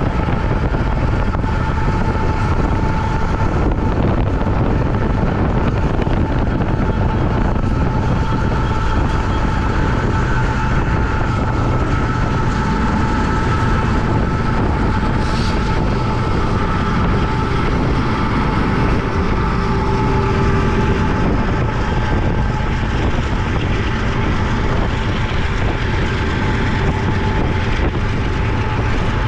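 Freight train with diesel locomotives running past at speed: a steady, loud rumble and rail noise with a steady hum held over it.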